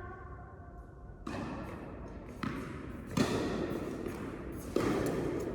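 Tennis ball struck by rackets and bouncing on an indoor court: four sharp pops, the first about a second in, each trailing off in a hall echo.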